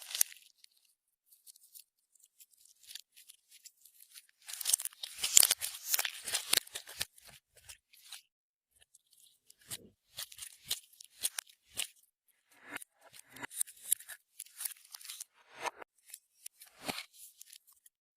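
Clear slime being worked by hand, giving runs of quick sticky clicks and pops. The densest run comes about five seconds in, followed by looser clusters of clicks.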